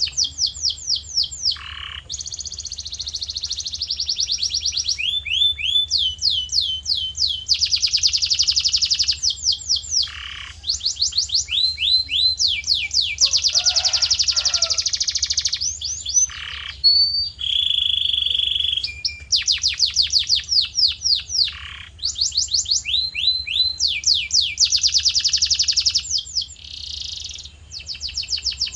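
Male canary in full song: long rolling trills of rapidly repeated notes, switching to a new phrase every second or two, over a faint steady low hum.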